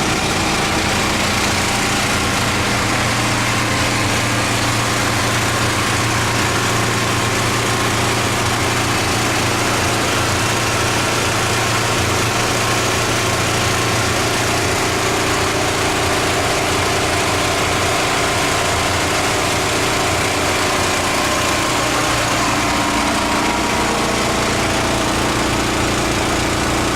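Pressure washer running steadily: an engine hum with the even hiss of high-pressure water spray over it.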